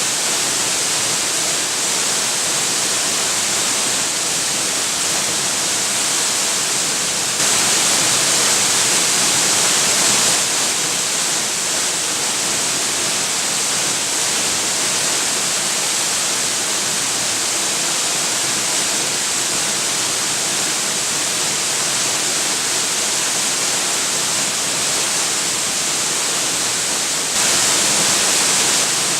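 Waterfall rushing in a steady, dense hiss of falling water. It is louder and brighter for a few seconds about 7 seconds in, and again near the end.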